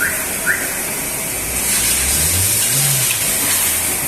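Front brake squeaking in short, evenly spaced chirps about twice a second, in time with the turning wheel. The chirps stop about half a second in, and a steady rushing noise with a low rumble takes over.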